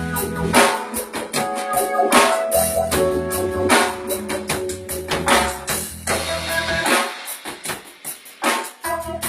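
Band playing an instrumental passage: drum kit with cymbal hits, electric bass and keyboards holding chords. The bass drops out for about two seconds near the end.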